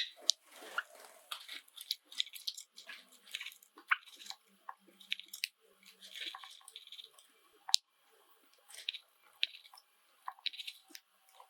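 Java sparrows chirping in short soft calls amid a steady scatter of sharp clicks and crunches, like birds cracking seed with their beaks.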